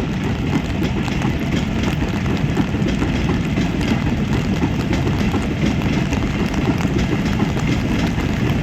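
Oil tanker freight train rolling along the track, a steady, dense low rumble with many fine clicks.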